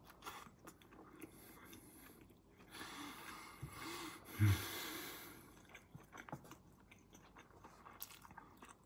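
A person chewing a mouthful of soft rice with mayonnaise and furikake, close to the microphone: quiet, wet mouth sounds and small clicks, with a brief louder low sound about four and a half seconds in.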